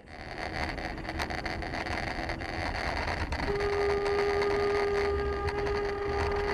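Road and engine noise heard from inside a car, with a long, steady car horn blast starting about halfway through.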